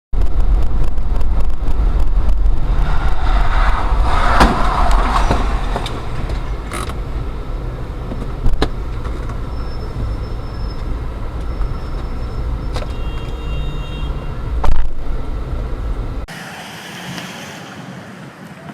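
Heavy road and engine rumble inside a moving car's cabin, picked up by a dashcam, with a few sharp clicks and one louder knock about fifteen seconds in. Near the end the sound cuts to a quieter stretch with wind noise on the microphone.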